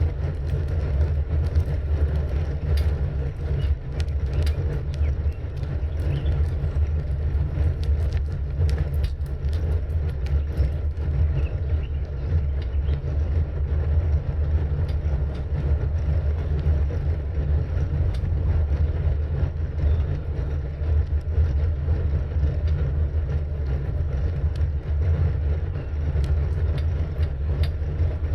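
Steady rumble of wind on the microphone of a camera riding along on a bicycle, with frequent small ticks and rattles from the bike and its mount over the road surface.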